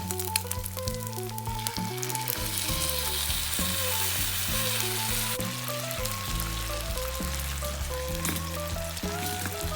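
Hamburger steak frying in an iron frying pan: a continuous fatty sizzle with frequent small pops and crackles.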